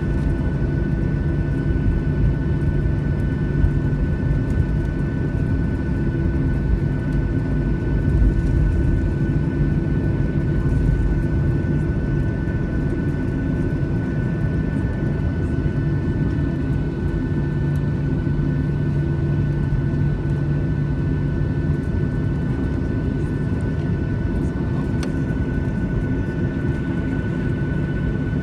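Steady cabin noise inside a Boeing 737-600 on the ground: a low rumble of its CFM56 jet engines running at low power, with a steady high whine.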